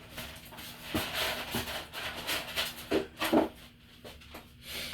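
Small objects being handled and set down on a work surface: irregular knocks, clicks and rustling, loudest a little past the middle.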